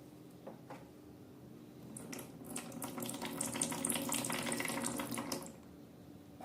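Running water splashing, as from a tap into a sink, building about two seconds in and stopping about a second before the end, over a faint steady hum.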